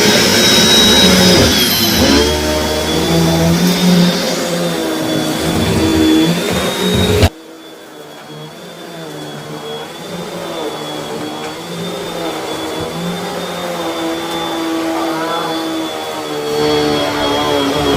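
Vacuum cleaner running, its motor whine wavering in pitch. About seven seconds in the sound drops suddenly much quieter, then slowly grows louder again.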